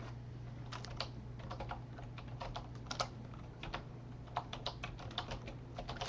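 Computer keyboard typing: irregular keystrokes entering names into a randomizer, over a steady low electrical hum.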